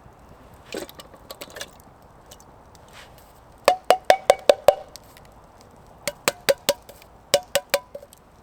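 Three quick runs of sharp knocks, about five a second, each stroke ringing briefly, with a few fainter knocks before them.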